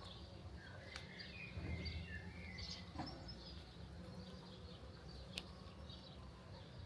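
Faint birds chirping in short calls over a low, steady background rumble, with a few soft clicks.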